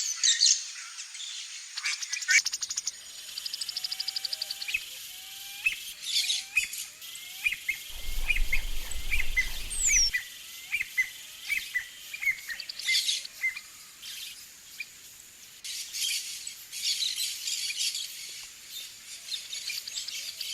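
Wild birds calling and singing: many short chirps and whistles from more than one bird, with a run of evenly repeated notes, about three a second, through the middle.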